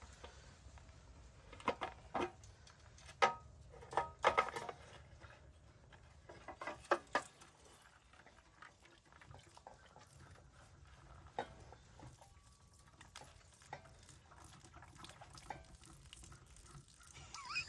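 Scattered light clicks and knocks of things being handled, bunched in quick clusters in the first few seconds and again a little later, over a faint low hum.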